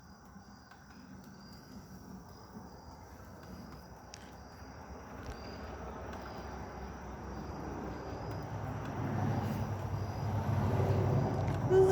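Crickets chirping in a steady high pulse while a passing vehicle approaches, its low rumble growing steadily louder through the second half.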